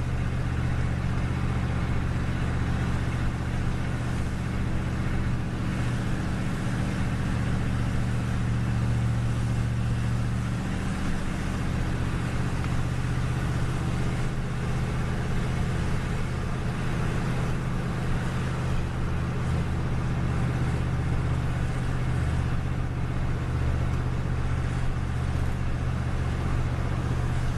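The 318 V8 of a 1994 Dodge Ram running steadily on wood gas while driving, a continuous low engine drone heard from the cab. Its pitch shifts slightly about ten seconds in.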